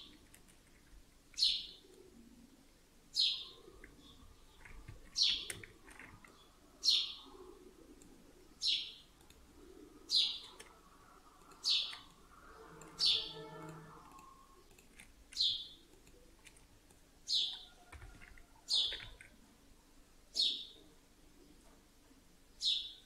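A bird repeating a single short chirp about every one and a half to two seconds, each a quick downward sweep, some thirteen times over.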